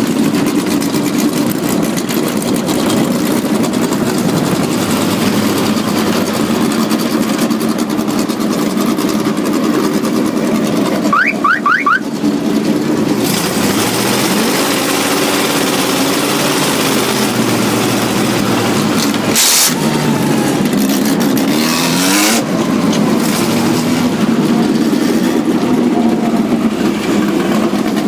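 Vehicle engines running steadily, their pitch rising and falling as they rev. A few short rising chirps come about eleven seconds in, and two brief bursts of noise around twenty and twenty-two seconds in.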